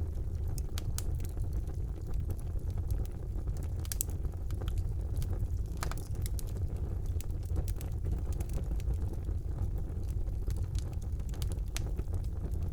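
Wood fire burning in a fireplace: a steady low rumble of flames with frequent sharp crackles and pops, a couple of louder pops about four and six seconds in.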